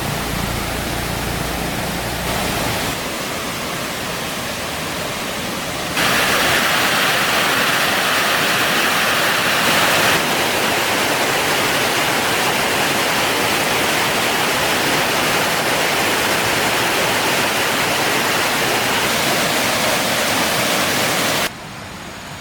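Flowing water rushing steadily, an even hiss. It jumps abruptly louder and brighter about six seconds in and drops away suddenly just before the end.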